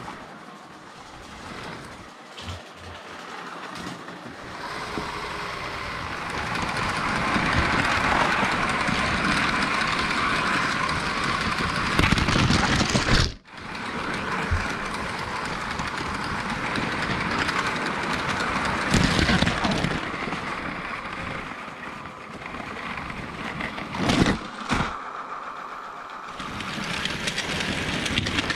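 A train running: a steady rushing rail noise that cuts out abruptly for a moment about halfway through, with a few short louder spells.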